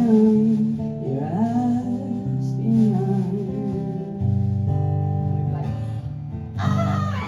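Acoustic guitar chords ringing out as a live song draws to its close, with a wavering held voice over the first few seconds. Crowd cheering and whoops break in near the end.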